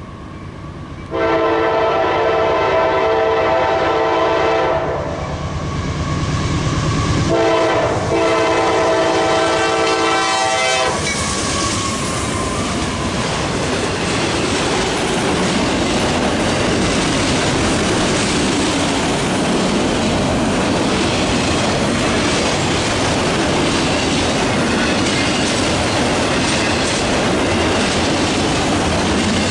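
Nathan K5LA five-chime horn on a GE AC4400CW freight locomotive sounding two long blasts, about 1 s to 5 s and 7 s to 11 s, over the rumble of the approaching diesel locomotives. From about eleven seconds in, a long string of empty autorack cars rolls past with steady rail noise and the clickety-clack of wheels over the rails.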